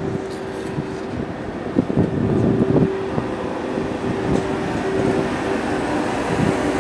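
TGV Réseau tri-current high-speed trainset running past along the platform track: a steady hum with the rumble of wheels on rail, louder from about two seconds in.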